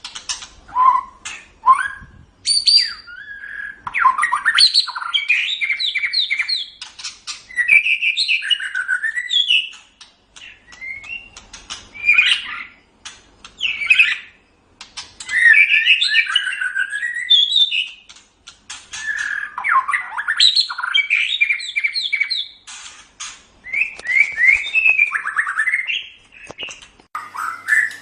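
White-rumped shama (murai batu) singing: varied, rapid whistled phrases and sharp chattering notes in bursts of a few seconds, with short pauses between them.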